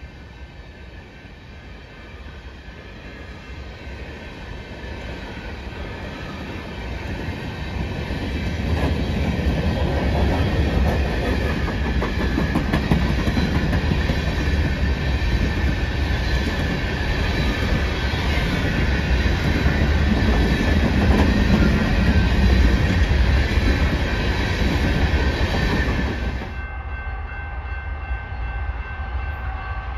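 Freight train of coal cars rolling past behind BNSF diesel locomotives: a steady rumble and clatter of wheels on rail that grows louder over the first ten seconds. About three and a half seconds before the end it cuts off abruptly to a quieter, distant rumble.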